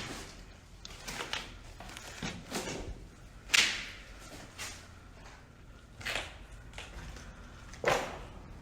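Footsteps scuffing and crunching over debris on a hard floor: irregular, with one sharp crunch about three and a half seconds in.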